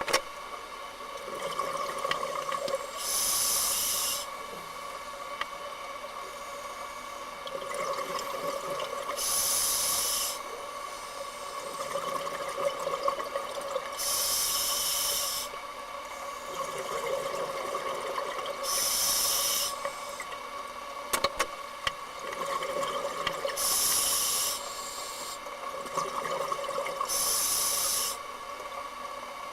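Scuba diver breathing through a regulator underwater: a sharp hiss on each inhale, six times about five seconds apart, with rushing exhale bubbles between them, over a steady faint hum.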